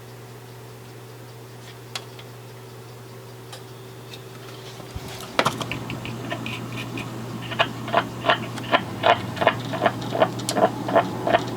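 A steady low electrical hum, then a sharp click about five seconds in. A run of evenly spaced clicks follows, about two to three a second.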